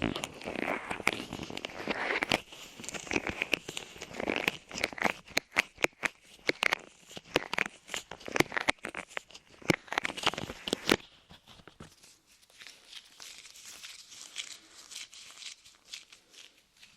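Light clay pressed onto and pulled off a microphone's ears, making sticky crackling with many sharp clicks. About eleven seconds in, the clicks stop and a fainter crackle carries on.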